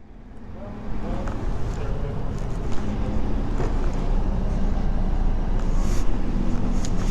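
Motor vehicle engine and road noise building up over about the first second, then running steadily, with the low engine note growing stronger a few seconds in.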